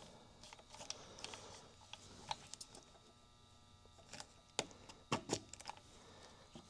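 Faint, scattered clicks and light metal knocks from a clamp and suspension parts being handled and released by hand, irregular, a few in quick succession about two-thirds of the way through.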